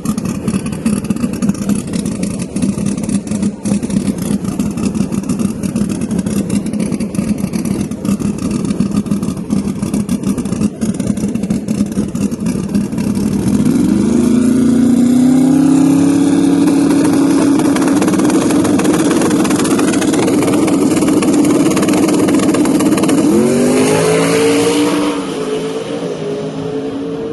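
Drag car engine running at a steady low rumble, then going to full throttle about halfway through: the pitch sweeps up and holds loud as the car accelerates down the strip. Near the end the revs drop and climb again, then the sound falls away.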